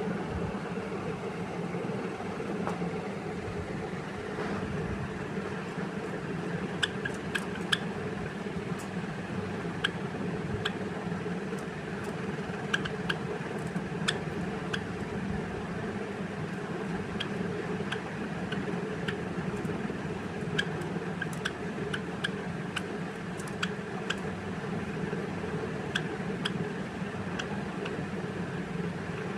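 Java sparrows giving short, sharp chip calls, scattered and irregular, starting a few seconds in, over a steady low hum.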